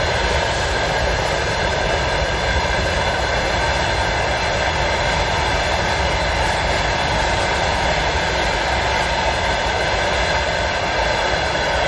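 Tank wagons of a long freight train rolling past: a steady, even rumble of wheels on rail.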